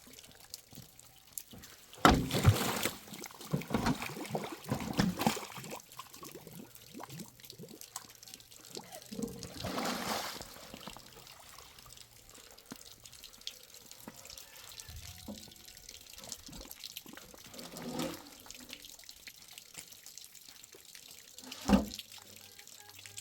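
Water being poured and splashed, with scattered knocks and clatter. The loudest splashes come a few seconds in, and there is a second-long pouring rush midway.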